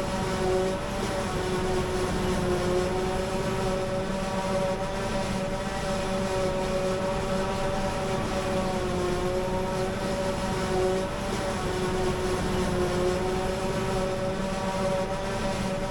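Claas Jaguar 870 forage harvester at work, its 16-litre Mercedes engine running steadily under load with a whine on top that dips slightly in pitch every few seconds.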